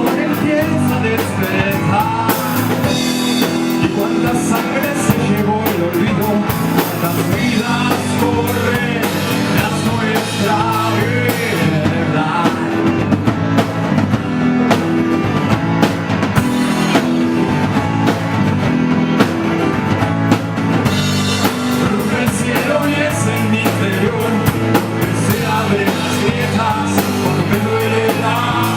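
Live rock band playing with drum kit, bass and guitar, with some singing.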